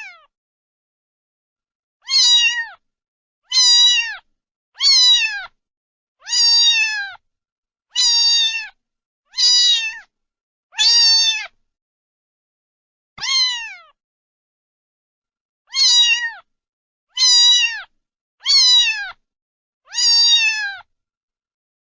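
A domestic cat meowing about a dozen times, one meow every second or so with a longer gap in the middle, each meow falling in pitch at the end.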